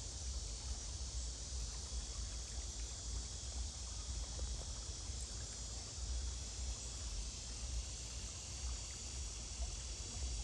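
Steady chorus of insects, a continuous high-pitched trilling haze, over a low rumble.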